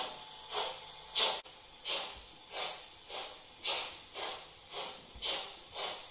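Märklin H0 model of a three-cylinder class 45 steam locomotive running, its ESU Loksound 5 sound decoder playing steam exhaust chuffs through the model's loudspeaker at a little under two beats a second. One short click is heard about a second and a half in.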